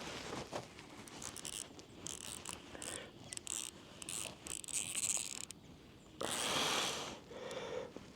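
Shimano Curado BFS baitcasting reel being wound in while a hooked fish is played, its gears and mechanism giving a ratcheting, clicking sound in short bursts. A louder rush of noise comes about six seconds in.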